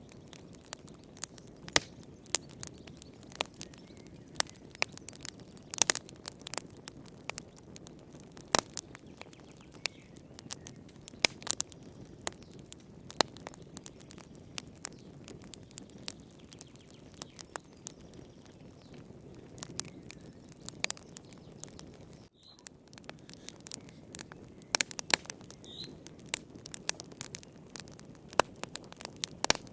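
Wood fire in a fireplace crackling: irregular sharp pops and snaps over a steady low hiss of burning, with a brief drop-out about two-thirds of the way through.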